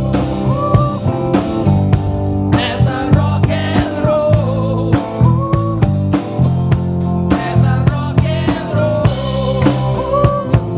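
Live rock band playing: drum kit keeping a steady beat under bass and guitars, with a melodic line weaving above.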